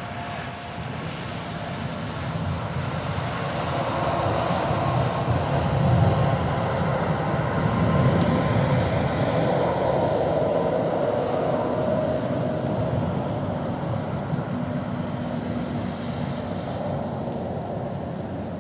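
Long rolling rumble of distant thunder that builds over several seconds, holds, then slowly fades.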